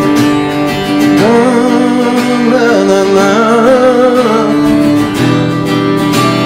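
Acoustic guitar strummed in a sertanejo song intro, with a wavering vibrato melody over the chords from about one to four and a half seconds in.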